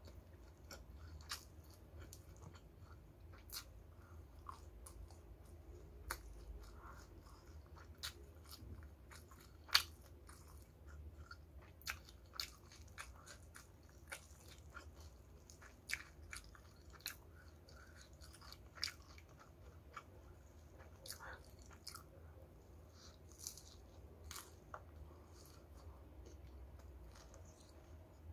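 Close-miked chewing and crunching of crispy battered fried chicken, with many irregular sharp crackles and clicks of the crisp coating, one louder about ten seconds in. A faint steady low hum sits underneath.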